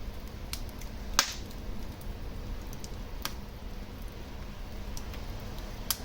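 Wood fire burning in a fireplace: a steady low rush with scattered small crackles and three sharp pops. The loudest pop comes about a second in, the others about three seconds in and near the end.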